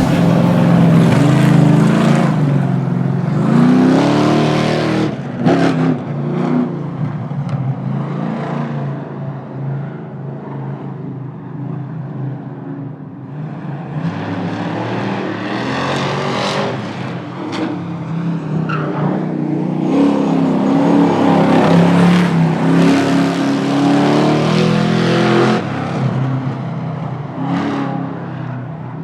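Street cars' engines accelerating hard in drag-racing passes, their pitch climbing and falling as they rev through the run. There are several louder swells as cars go by.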